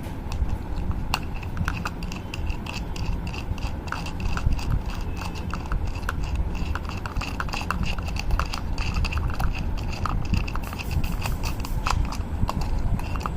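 Scattered small clicks, taps and scrapes of hands working a metal nut and bolt through a hole in a plastic bottle and box, threading the nut on, over a steady low background rumble.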